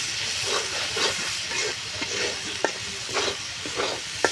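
Spice paste sizzling as it fries in oil, with a spatula scraping and stirring it around the pan in irregular strokes and knocking the pan sharply twice. The paste is being browned before the chicken goes in.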